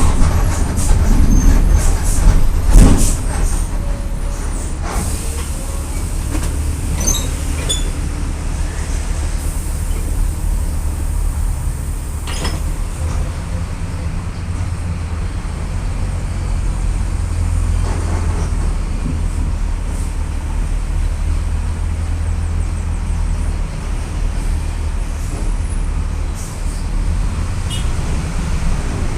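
Volksbus 17.230 EOD bus running, a steady low engine drone that is louder for the first three seconds or so and then settles. A few short knocks or rattles sound over it.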